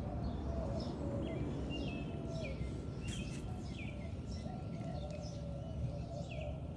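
Birds chirping: a string of short, quick, downward-sliding chirps, over a steady low background rumble.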